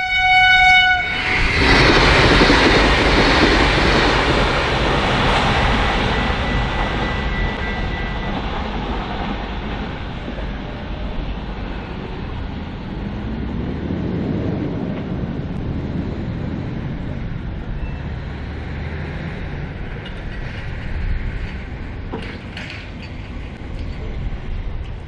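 V/Line VLocity diesel railcar train sounding a short horn blast, then running by loudly with engine and wheel noise that eases down to a steadier rumble.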